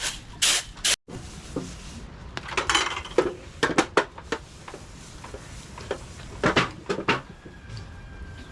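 Pots, dishes and metal utensils being handled: scattered clinks and knocks, loudest in a cluster near the middle and again about two-thirds of the way through. It opens with a few rhythmic rubbing strokes that cut off abruptly about a second in.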